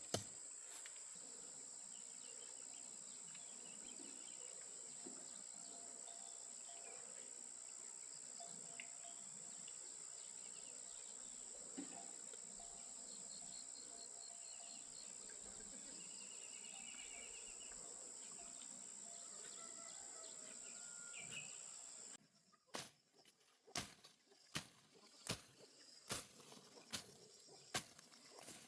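Rural outdoor ambience: insects keep up a steady high-pitched drone with scattered bird calls. About 22 seconds in the ambience cuts off and a run of sharp knocks follows, roughly one every half second to a second.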